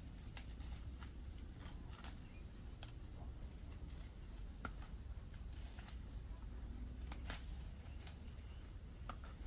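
A steady, high-pitched insect drone, with scattered light clicks and rustles over it.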